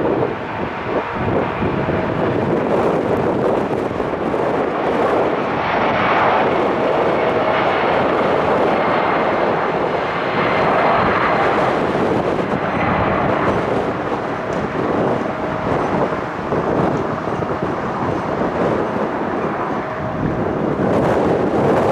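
Boeing 757-300 twin-engine jetliner departing, its turbofans running at takeoff power with a loud, steady rush of jet noise.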